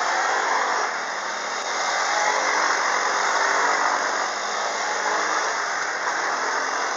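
Quad bike engine running steadily during a ride.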